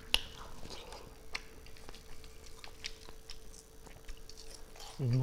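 A person chewing a mouthful of small fried fish and rice, heard close up as irregular wet smacks and clicks of the mouth. Near the end comes a short hummed "mm" that rises and falls in pitch.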